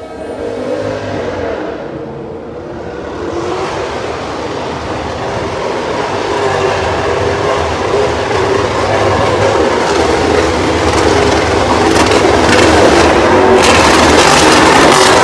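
Vehicle noise building steadily louder: a rushing, engine-like din that swells through the whole stretch.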